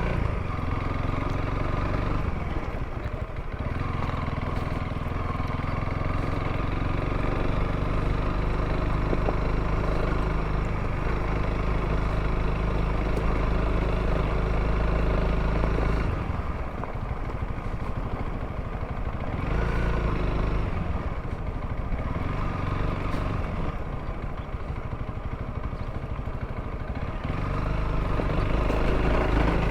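Honda CRF300L's single-cylinder four-stroke engine running as the motorcycle is ridden. The throttle eases off briefly about three seconds in and for longer stretches past the middle, then picks up again near the end.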